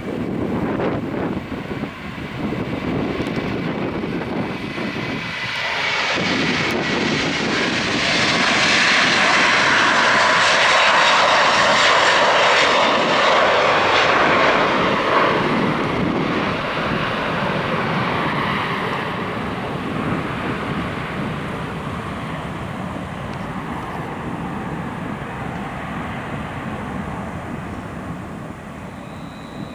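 Airbus A330-303 airliner's turbofan engines at takeoff power, a loud jet roar that builds to a peak as the aircraft passes and then slowly fades as it climbs away.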